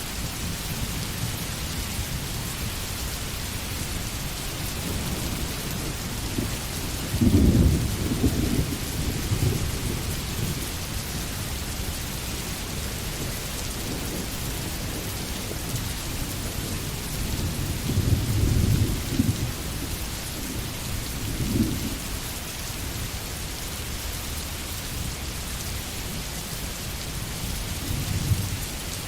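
Steady rain falling, with low thunder rumbling up and fading several times, the loudest roll about seven seconds in.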